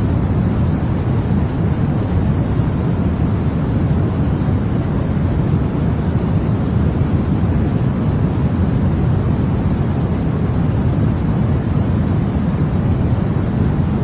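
A continuous baby-sleep white-noise track: a steady, deep rushing hiss, weighted toward the low end, that never changes.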